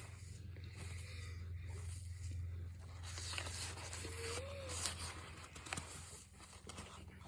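Faint rustling, scraping and small clicks of packaging and powdered starch being handled as tapioca is mixed into cornstarch, over a low steady hum.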